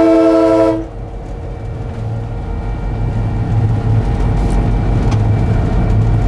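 A locomotive air horn chord ends about a second in, sounded for a whistle board, leaving the EMD 567 diesel prime mover of a GP9 running steadily in the cab with a low drone that grows gradually louder.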